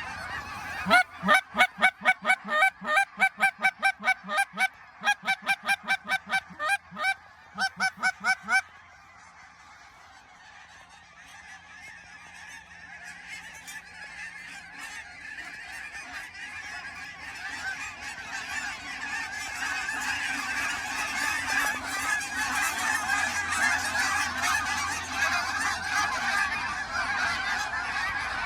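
A goose call blown in a fast, steady run of loud honks, about three or four a second, which stops abruptly about nine seconds in. After that, a large flock of geese honking swells gradually and is loudest near the end.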